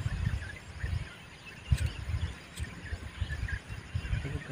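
Birds chirping here and there over irregular low rumbling, with two sharp clicks near the middle.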